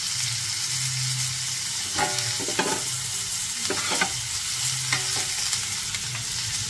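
Chopped onions and green chillies sizzling in hot oil on a tawa while being sautéed. A steel spatula scrapes and taps against the pan several times as it stirs them.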